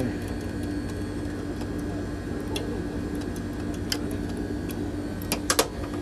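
Steady low mechanical hum with a few light clicks of hands on the equipment, two sharper clicks close together near the end.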